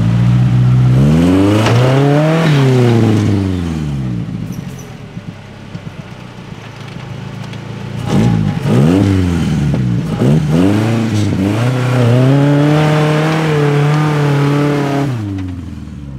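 Engine of a modified Suzuki SJ off-roader revving up and down under load as it climbs over rock: one long rise and fall at the start, a quieter stretch, then several quick blips and revs held high for about three seconds before dropping off near the end.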